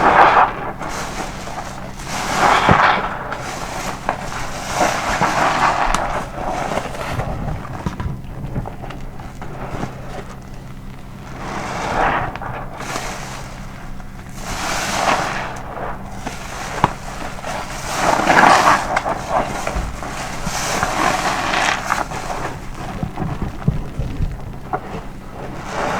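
A soapy car wash sponge being squeezed and released over and over: wet, foamy squelching that swells with each squeeze, about every two to three seconds.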